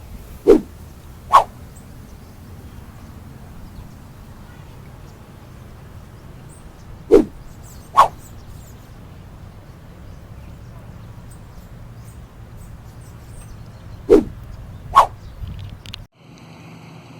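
An animal calling in three pairs of short calls about seven seconds apart, the second call of each pair higher than the first, over a steady low background.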